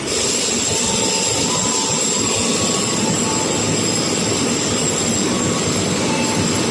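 Train running close by at the station: a loud, steady rushing rumble with a thin high whine held throughout.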